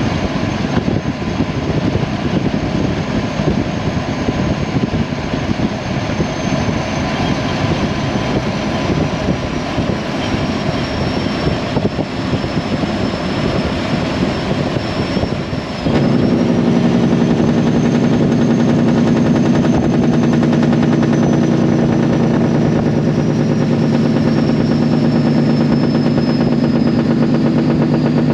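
Straight-piped diesel engine of a Peterbilt 389 semi truck running on the road, its open exhaust rough and crackling. At about 16 seconds it changes suddenly to a louder, steady drone. A thin high whine runs on above it throughout.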